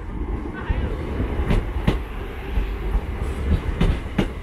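Class 323 electric multiple unit pulling out, its wheels clicking over rail joints in pairs as each bogie passes, over a steady low rumble.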